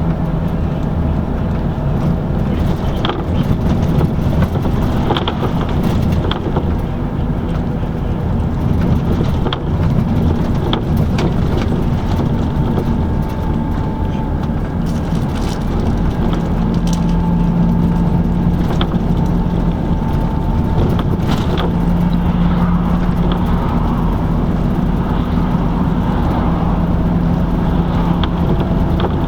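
Interior of a LiAZ-5250 intercity bus under way: the engine runs steadily at cruising speed over constant road and tyre noise, with scattered short rattles and knocks from the cabin.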